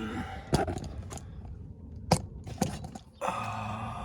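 Hand-work noise on an engine: sharp clicks and knocks of spark plug wires and their retaining clips being handled, three of them, the loudest about two seconds in, with rustling and scraping at the start and again near the end.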